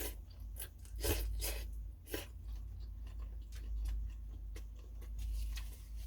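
A person eating pho close to the microphone: chewing, with a string of short sharp eating sounds about a second apart, over a steady low hum.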